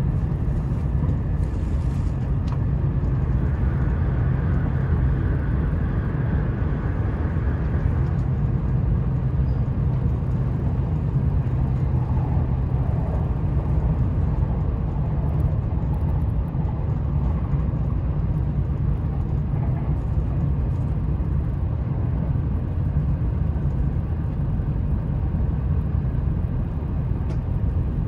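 Steady running noise inside the upper-deck cabin of a JR East E4 Series double-decker Shinkansen moving along the line: an even low rumble from wheels and track. A faint higher tone sits over it between about four and eight seconds in.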